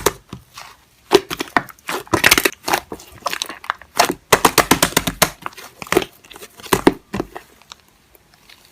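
Slime being squished and pressed by hand: a quick run of sticky clicks, pops and crackles that thin out and stop near the end.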